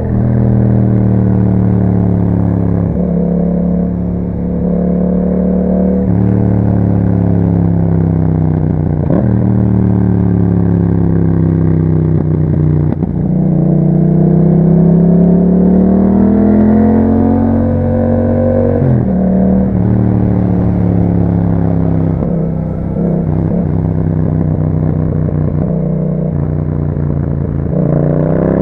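2021 Yamaha MT-07's parallel-twin engine running through an Akrapovic exhaust with a dB killer while being ridden. The pitch climbs and falls with the throttle and drops briefly several times, at about 3, 6, 9 and 13 seconds in, as it shifts gear.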